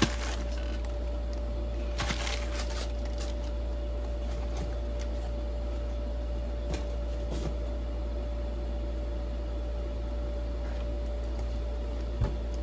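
Steady low background hum with a faint constant tone, and a few light rustles and clicks of things being handled, the clearest about two seconds in and near the end.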